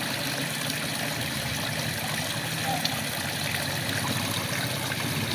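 Steady rain falling, with frogs calling underneath: a low, rapidly pulsing drone and a few faint short calls.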